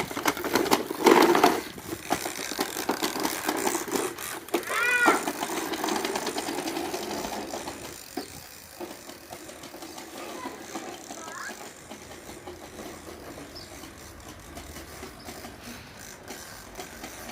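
Plastic toy lawn mowers rattling and clicking as they are pushed over grass, busiest in the first half and quieter after about eight seconds. A child's brief call about five seconds in.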